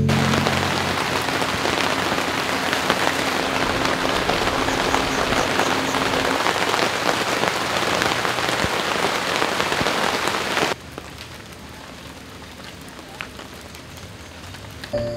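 Rain falling steadily as a dense patter of drops, cutting off abruptly about eleven seconds in to a much quieter background.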